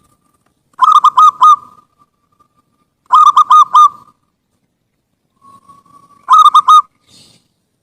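Zebra dove (perkutut) singing: three loud phrases of about four quick coos each, a couple of seconds apart. A faint held note leads into the last phrase.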